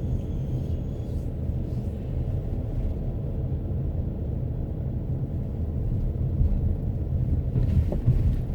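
Steady low rumble of a car driving, heard from inside the car: engine and tyre noise on the road, growing slightly louder late on, with a small knock near the end.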